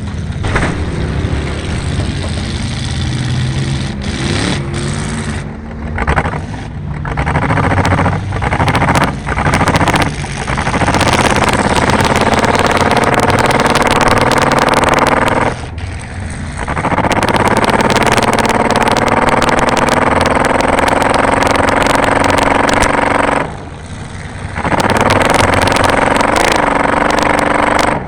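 Car engine running hard, its pitch climbing as it accelerates, with two brief lifts off the throttle, one about midway and one near the end, under a loud noisy clatter.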